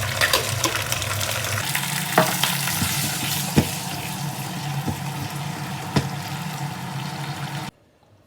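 Bok choy sizzling as it is stir-fried in a pan, with a utensil clacking against the pan a few times. The sizzling cuts off abruptly near the end.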